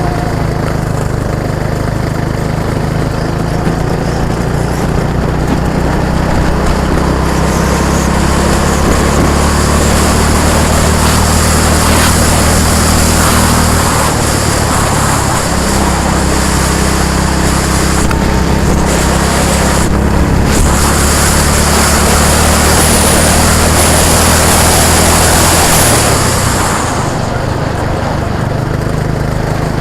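An engine running steadily close by. Its low hum dips briefly about halfway through, and the higher noise eases off near the end.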